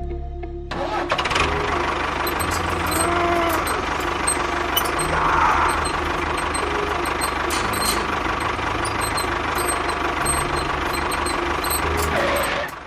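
An engine running steadily with a fast, even low chugging, cutting off just before the end.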